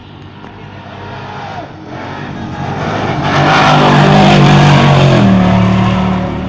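Off-road trophy truck racing past at speed: the engine and the rush of tyres on dirt grow louder, peak, and the engine note drops in pitch about five seconds in as it goes by and pulls away.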